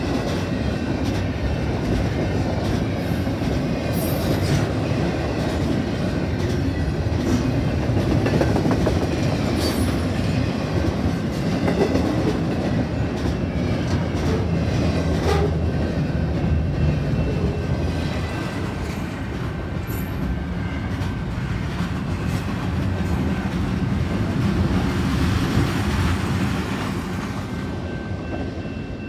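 Double-stack intermodal container train rolling past: a steady rumble of well-car wheels on the rail with rhythmic clickety-clack and scattered sharp clanks. It gets quieter over the last couple of seconds.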